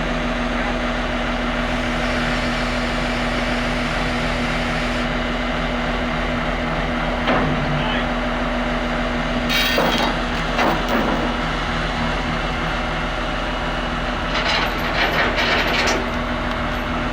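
A heavy machine's engine running steadily at constant speed, with scattered clanks and knocks: one about seven seconds in, a cluster around ten seconds and another around fifteen seconds.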